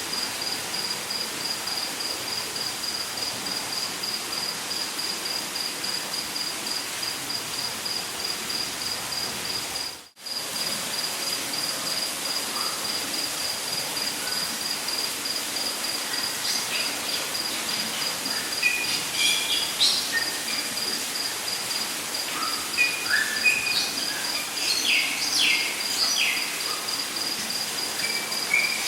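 Rainforest ambience: an insect trills steadily in a fast pulsing high note over a soft even hiss. Birds add short chirps and slurred calls in the second half. The whole sound cuts out for a moment about ten seconds in.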